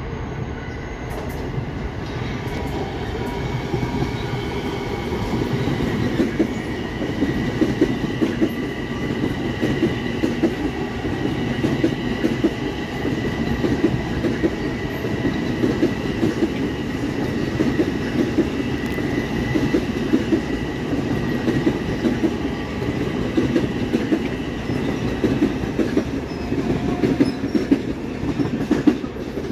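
Long Island Rail Road M7 electric multiple-unit train rolling past, with a steady rumble and wheels clicking over rail joints, and a thin, steady high whine above it.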